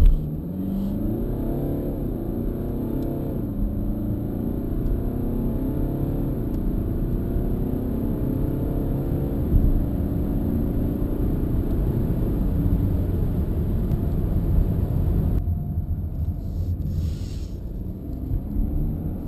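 BMW 318d's four-cylinder turbodiesel, heard from inside the cabin, accelerating from a standstill. Its pitch climbs and drops back several times as the automatic gearbox shifts up. From about three-quarters of the way through, the engine comes off load and runs at lower revs as the car slows.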